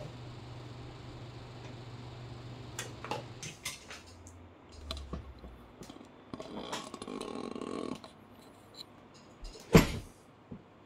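Handling noises while parts are worked on: a low steady hum that stops after a few seconds, a scatter of sharp clicks, a stretch of rustling, and one loud knock near the end.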